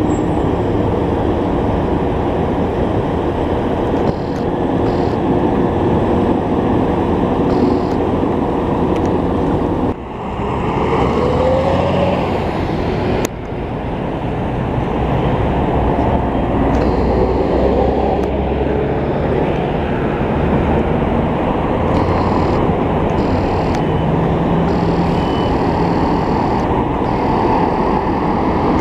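Loud, steady street traffic noise of heavy vehicle engines and tyres as fire engines drive through city traffic, with no clear siren. The sound breaks off suddenly twice, about ten and thirteen seconds in.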